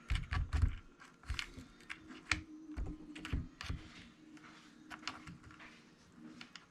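Irregular light clicks and taps of small plastic and metal parts being handled while reassembling the E-Revo 2.0 RC truck's differential, several in quick succession near the start and then sparser.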